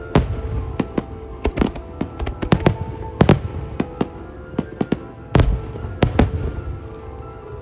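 Fireworks shells bursting in a rapid, irregular volley of sharp bangs, the biggest about three and five seconds in, with show music playing underneath.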